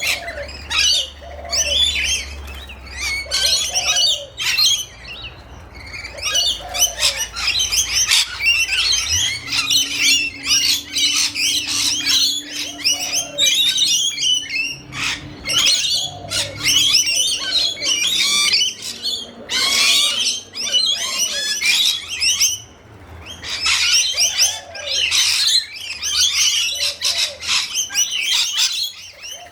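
A flock of rainbow lorikeets screeching and chattering, their calls overlapping constantly, with a lower, rounder call repeated every couple of seconds underneath.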